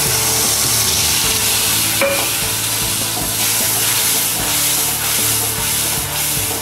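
Water-thinned mustard paste sizzling steadily in hot mustard oil with black cumin seeds in a metal kadai, as a metal spatula stirs and scrapes it around the pan.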